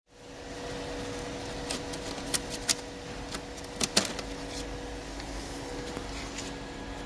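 ROLWAL MMA-200P inverter arc welder running with a steady two-tone hum and hiss. A few sharp crackles break in between about two and four seconds in.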